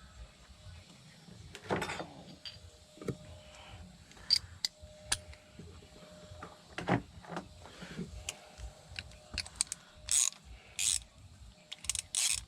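Hand tools being handled: irregular clicks, clinks and knocks of metal tools, with a few short louder rattles near the end.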